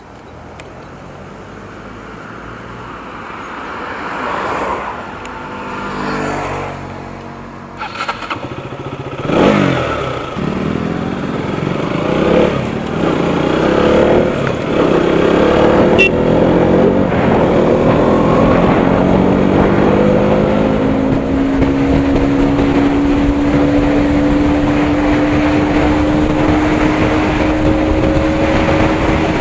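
Single-cylinder 200 cc motorcycle engine accelerating up through the gears, its pitch climbing and breaking at each shift. It then pulls steadily with its pitch slowly rising as speed builds, while wind noise grows louder.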